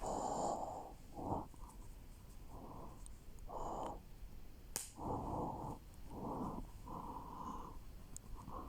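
A person breathing close to the microphone: a series of noisy breaths, each about half a second to a second long, with one sharp click about five seconds in.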